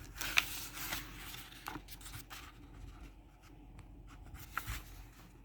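Faint rustling of a paper book's pages being handled and turned, with a few light clicks.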